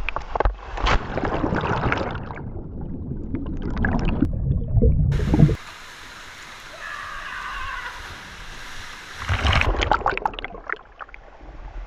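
Rushing, splashing water, loud for the first five and a half seconds before cutting off abruptly. A quieter stretch follows, then another loud burst of splashing near the end.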